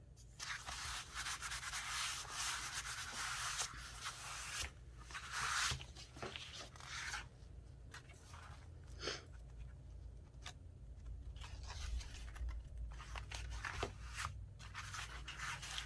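Paper rustling and rubbing as sheets and cut-outs are handled and slid across a journal page. The longest stretch comes in the first few seconds, followed by shorter rustles and scattered light taps and clicks.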